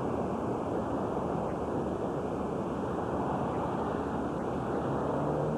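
Steady rushing noise with no distinct events, wind and outdoor traffic noise on the camcorder's microphone.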